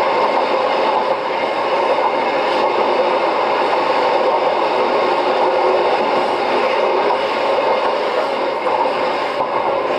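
Kishigawa Line 'toy train' electric railcar running along the line, a steady rumble of wheels on rails and running gear heard on board.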